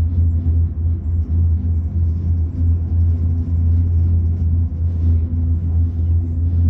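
Steady low rumble inside a Skyrail cable-car gondola as it rides the cable.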